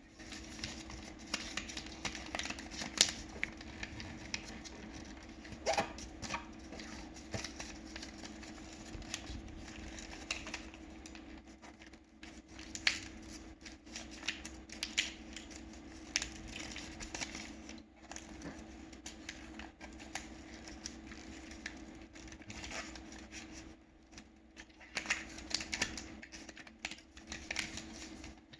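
Paper being folded and creased by hand: irregular crinkling, rustling and sharp crackling clicks, with a steady low hum underneath.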